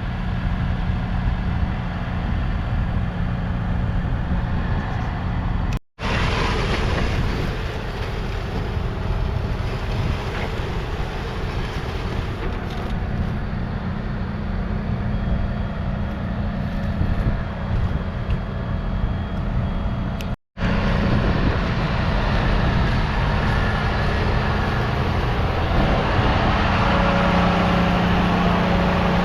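John Deere 6155R tractor's 6.8-litre six-cylinder diesel engine running steadily while pulling a five-furrow reversible plough. The sound cuts out for a split second twice, about six seconds in and again about twenty seconds in.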